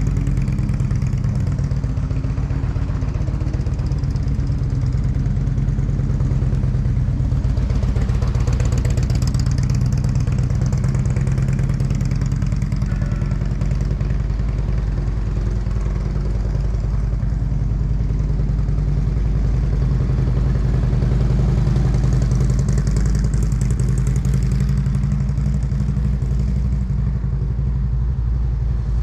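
Motorcycle engine running steadily at low revs, swelling slightly twice, about a third of the way in and again near the end.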